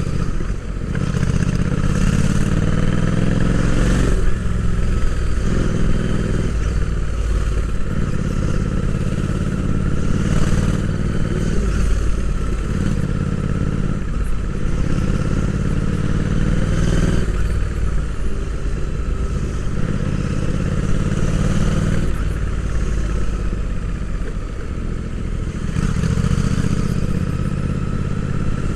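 Royal Enfield Interceptor 650's 648 cc parallel-twin engine under way, heard from on board the bike. The revs climb and fall again several times as the rider works the throttle and shifts gears.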